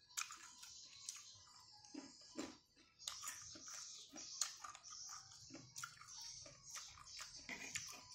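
Chewing and mouth sounds of a man eating rice and stir-fried water spinach by hand, with many short soft clicks scattered throughout.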